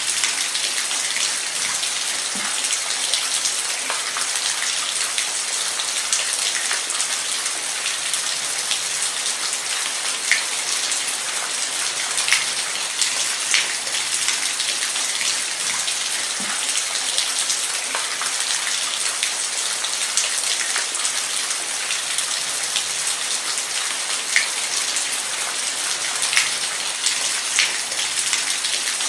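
Steady rain falling, a dense hiss with scattered separate drops ticking sharply on a surface.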